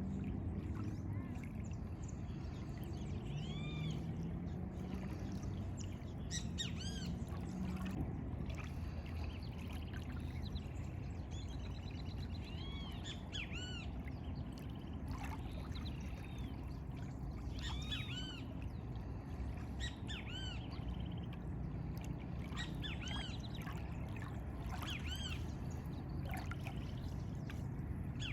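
Several birds calling, many short chirps in quick runs, over a steady low rumbling background.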